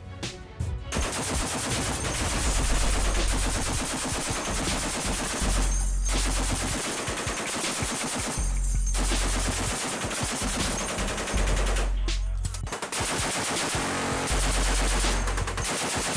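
Sustained rapid gunfire over a deep low rumble, with short breaks about six, nine and twelve seconds in.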